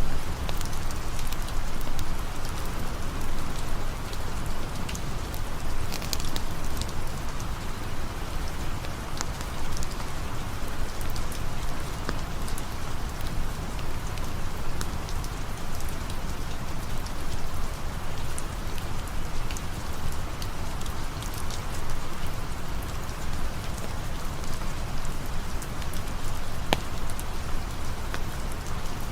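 Steady rain falling as an even hiss, with scattered sharp little ticks and clicks throughout.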